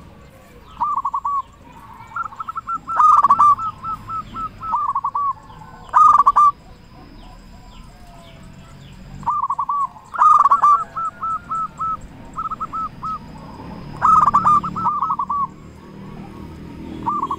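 Zebra doves (perkutut) singing their rolling coo phrases, each a quick run of short notes, a new phrase every few seconds. At times two phrases overlap at slightly different pitches.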